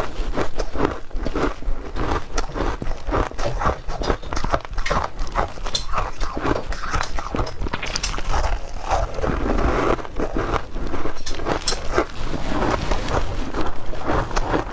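Close-up crunching and chewing of ice: a fast, continuous run of crisp cracks and crunches, several a second.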